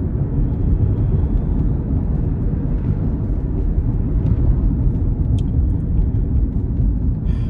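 Steady low rumble of a Toyota car running, heard from inside the cabin.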